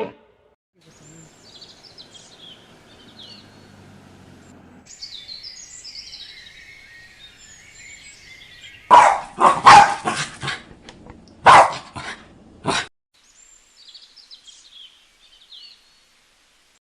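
A dog barking: a quick run of several barks, then a couple more after a short pause. Faint bird chirping before and after.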